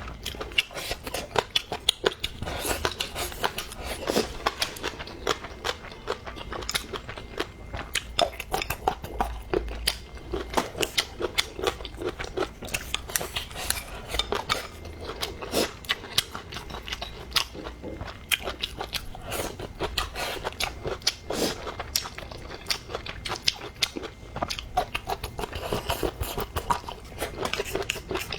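Close-miked chewing and crunching of food, with a dense run of crisp clicks and smacks throughout.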